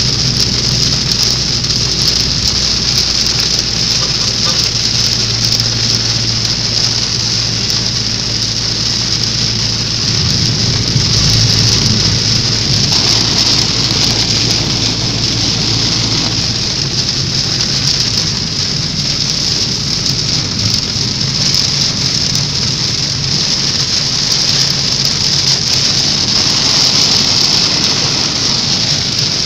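Heavy downpour falling hard on a moving car's roof and windshield, heard from inside the car as a loud, steady hiss. A low engine hum runs underneath and fades about ten seconds in.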